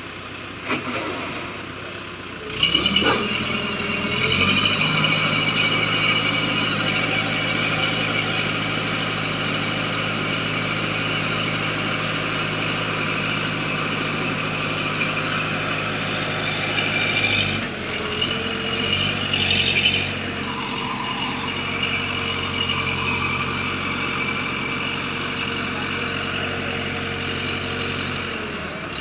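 Hydra crane's diesel engine revving up about two and a half seconds in and held at high speed, with a steady high hydraulic whine, as the crane works a heavy load of about 15 tonnes. The engine note shifts once about two-thirds of the way through.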